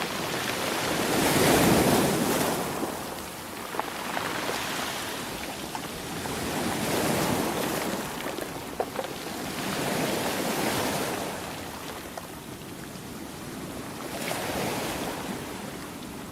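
Sea waves washing in and drawing back, four slow swells of surf that rise and fade a few seconds apart.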